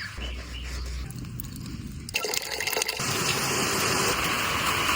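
Water rushing or pouring, getting louder in two steps, about two and three seconds in.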